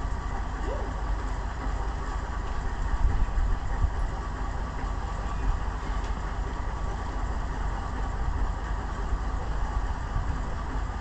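Volvo BM Buster 320 tractor's engine running steadily, with a couple of brief louder knocks about three to four seconds in.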